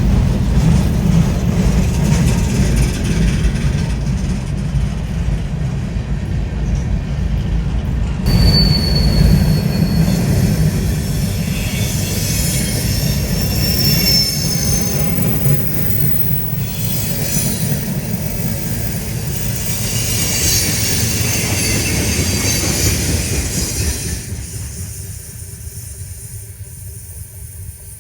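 Freight train rolling past, a heavy rumble of cars on the rails with high-pitched wheel squeal coming and going. It fades away over the last few seconds.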